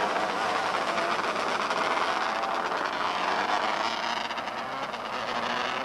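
Engines of small open-wheel race cars running on the track together, a steady high-pitched mechanical drone, with one engine's pitch rising about halfway through.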